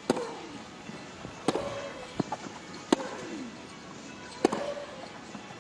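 Tennis rally: racket strikes on the ball alternate about every one and a half seconds, four of them plus one right at the end, with a softer ball bounce in between.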